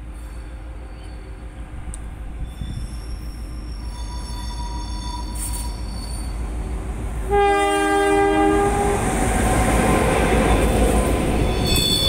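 Queensland Rail 1720 class diesel locomotive and its carriages approaching on a curve, growing louder, with a thin high wheel squeal. A little past the middle it sounds its horn once, for about a second and a half. Engine and wheel noise then peak as it passes, with high wheel squeal again near the end.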